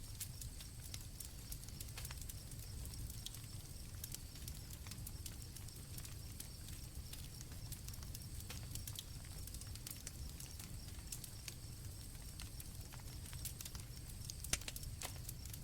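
Campfire crackling with scattered pops over a low steady rumble, with one louder pop near the end, and crickets trilling steadily behind it.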